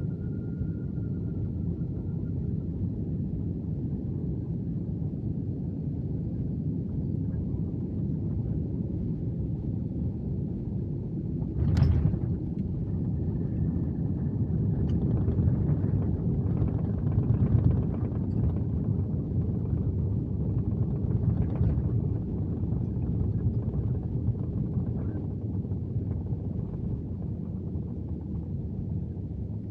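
Airbus A321neo cabin noise during landing: a steady low rumble, a sharp thump about twelve seconds in as the wheels touch down, then louder rumble for several seconds after.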